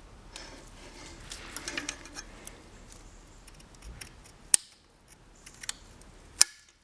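Light handling noise with a few small clicks, then two sharp clicks, one a little past halfway and one near the end, as metal axle parts are handled.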